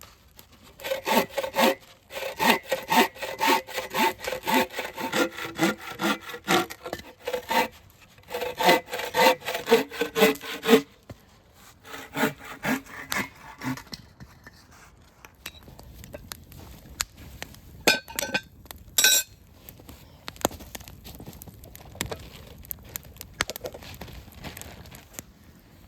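Hand saw cutting through wood in steady back-and-forth strokes, about two a second, with a brief pause partway. The strokes weaken and stop about halfway through, followed by a few scattered light clicks and knocks.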